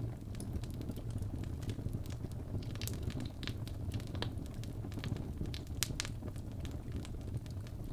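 Fireplace crackling: a steady low rumble of burning wood with irregular sharp pops and crackles, several a second.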